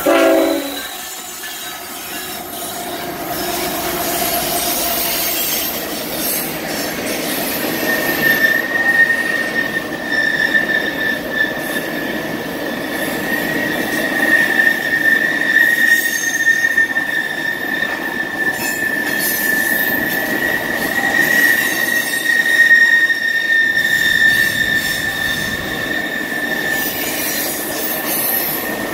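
Freight train of empty ethanol tank cars rolling past with a steady rumble of wheels on rail. About eight seconds in, a high, steady wheel squeal sets in and holds almost to the end.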